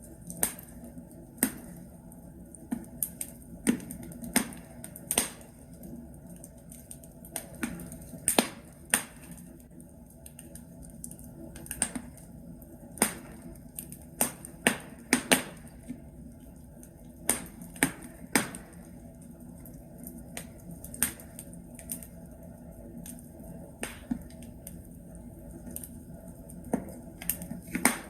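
Burning logs crackling in a fireplace: irregular sharp pops and snaps, bunched more closely around the middle, over a low steady background of the fire.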